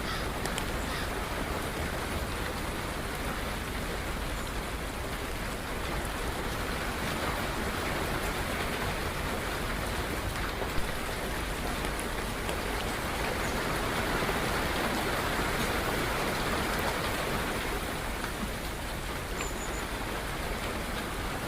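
Steady rain falling, an even continuous patter on surfaces, with one sharper tick about halfway through.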